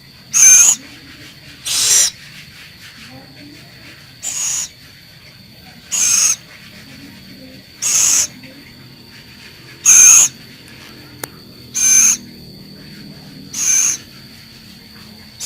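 Scops owl giving short, harsh, raspy calls, one about every two seconds.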